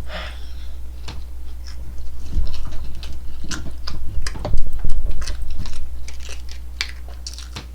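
A person chewing chicken nuggets close to the microphone: an irregular run of short mouth clicks and smacks.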